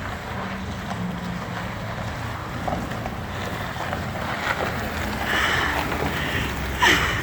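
Truck engine and tyres heard from inside the cab as it drives through a puddle, with water sloshing and splashing under the wheels and a louder burst of noise near the end.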